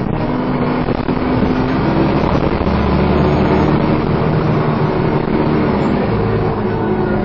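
Dennis Trident 2 double-decker bus engine pulling hard under heavy throttle, with the whooshing 'hoover' whine of its cooling fan. The engine note holds steady through the middle and changes pitch slightly near the start and near the end.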